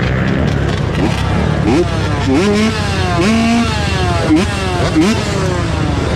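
Dirt bike engines revving over a steady running drone, the pitch climbing steeply and dropping back again and again, about eight times, with more than one bike at once in places.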